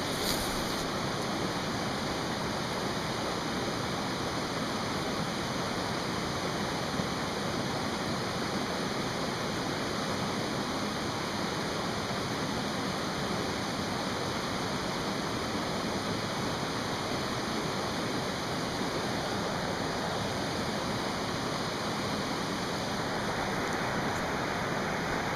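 Mountain stream rushing steadily, with a few sharp clicks right at the start.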